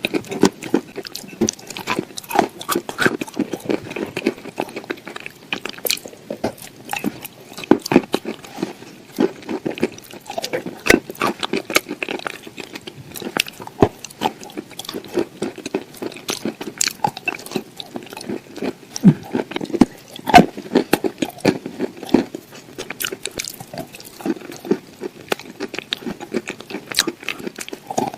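A person chewing and biting crunchy food: irregular sharp crunches, several a second, without pause.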